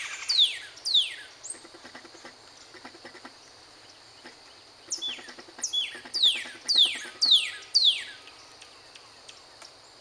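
A bird singing a series of loud, quick whistled notes that each slur steeply downward: a few at the start, then a longer run of about eight from about five seconds in.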